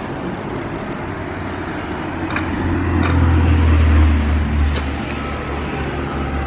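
Low road-traffic rumble from a passing motor vehicle, swelling about three seconds in and easing off again.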